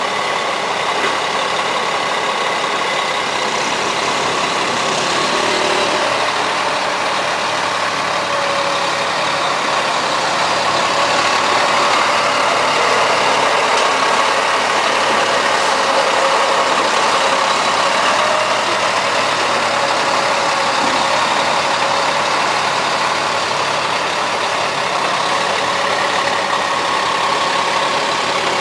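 Truck engine running steadily, a little louder for several seconds in the middle.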